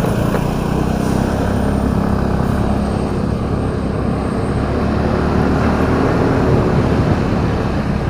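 Vehicle engine running steadily under way, a constant hum with road and wind rumble.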